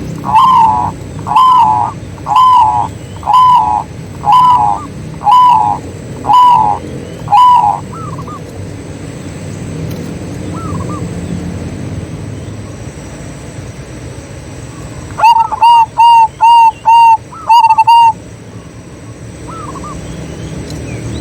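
Zebra doves cooing: a series of about eight notes at roughly one per second, then after a quieter pause a quicker, louder run of short coos.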